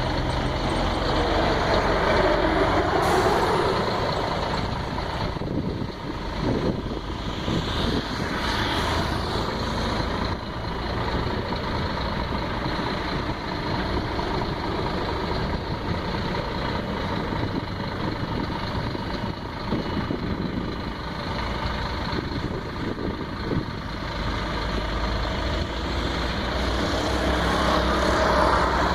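Scania truck's diesel engine running at low speed while manoeuvring to park, swelling in revs about a second in and again near the end, with a few short sharp sounds in between.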